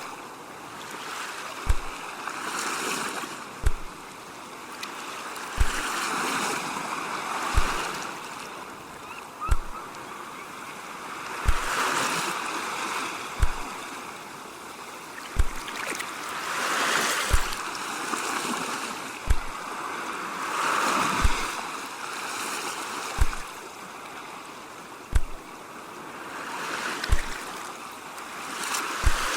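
Ocean waves washing onto a shore, swelling and receding every few seconds. Under them a deep, soft thump repeats evenly about every two seconds, the loudest thing in the mix.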